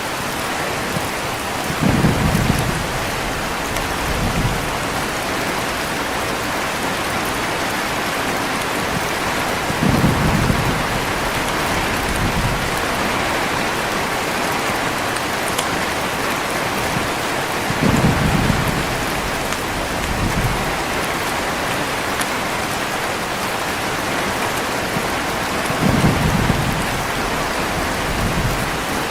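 Heavy rain falling steadily, with low rolls of thunder coming at even spacing about every eight seconds, each followed by a weaker rumble about two seconds later.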